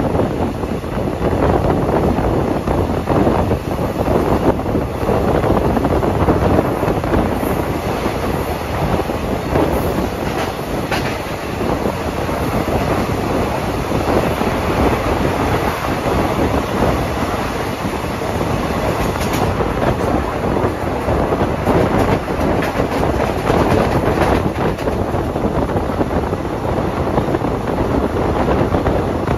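Passenger train coaches running along the track at speed, heard from on board: a steady rushing rumble of wheels on rails with scattered clicks over the rail joints.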